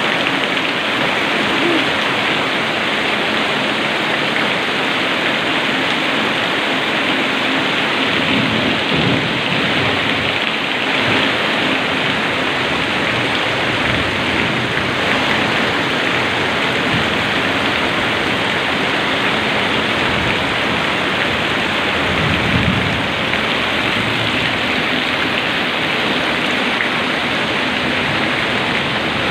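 Heavy tropical downpour, a loud, steady rush of rain. A couple of low rumbles swell under it, about a third of the way in and again about three quarters of the way in.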